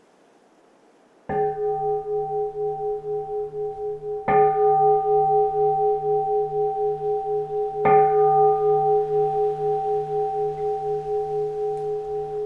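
A keisu, the bowl-shaped Zen temple bell, struck three times about three seconds apart, starting about a second in. Each strike rings on long and overlaps the next, and the tone pulses slowly as it rings.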